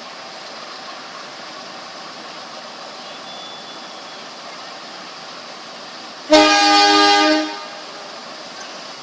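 Train horn sounding one blast of a little over a second, about six seconds in, over a steady rushing noise.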